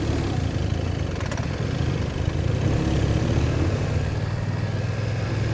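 BMW R1200's boxer twin engine running hard as the loaded motorcycle pulls away, given a lot of throttle just to take off.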